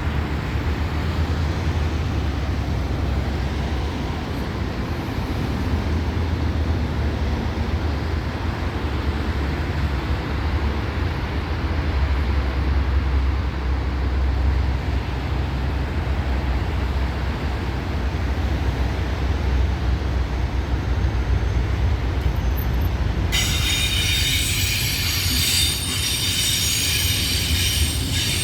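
Passenger train running on the line, with a steady low rumble of wheels on track. Near the end, a high-pitched squeal of several tones cuts in abruptly over the rumble.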